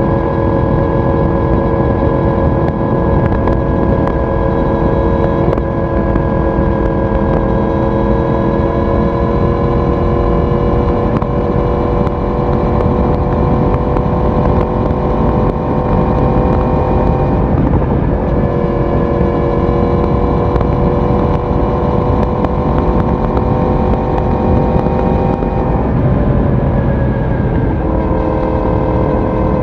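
Yamaha YZF-R1 inline-four exhaust at steady cruising revs, with a dense rushing noise underneath. The engine note breaks briefly about midway, then settles a little lower near the end.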